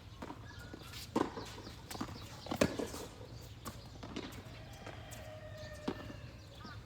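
Tennis rally: sharp pops of rackets striking the ball and the ball bouncing on the court, the loudest about one and two and a half seconds in, with fainter hits and steps later.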